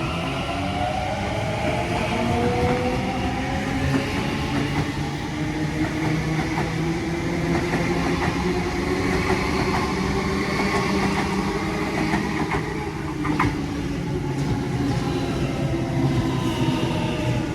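Train moving through the station, its motors whining in several tones that slowly shift in pitch, with wheels clicking over the rails at times.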